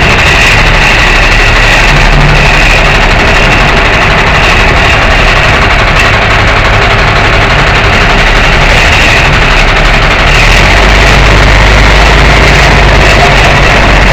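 Tow truck's diesel-sounding heavy engine running steadily and loud, with a deep rumble and no change in speed.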